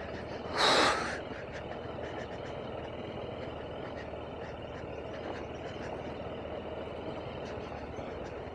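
BMW G310RR's single-cylinder engine running steadily under way, mixed with wind and road noise. About half a second in, a short, loud hissing rush rises over it and fades within about half a second.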